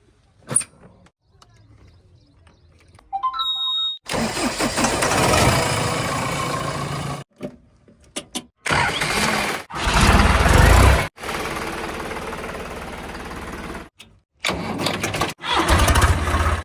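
Heavy diesel vehicle engines running, heard in short edited stretches that cut off abruptly several times. The engine sound is loudest and deepest in surges around the middle and near the end, as if the engine is being revved under load.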